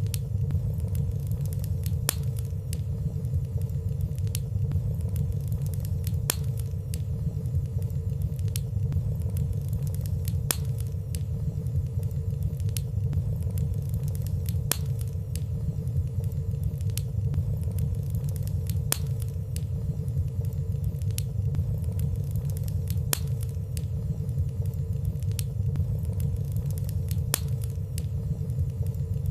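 Wood fire burning in a fireplace: a steady low rumble of flames with light, sparse crackles about every second or two, and no loud pops.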